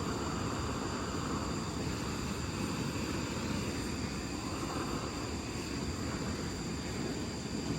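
A steady low rumble, with a constant high-pitched insect drone above it. The rumble cuts off abruptly at the very end.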